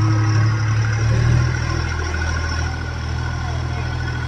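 Tractor diesel engine running steadily with a low hum, dropping a little in loudness after about two and a half seconds.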